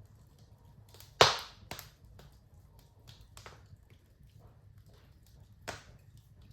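Fireplace fire crackling, with a sharp loud pop about a second in, a second pop near the end, and small scattered crackles between.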